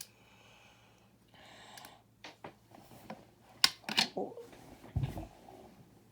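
Small plastic building bricks clicking and rattling as they are handled and pressed together: a few sharp clicks in the middle, then a dull thump about five seconds in.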